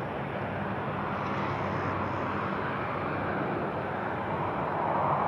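Aircraft engine noise at an airport: a steady rushing drone that swells slightly near the end.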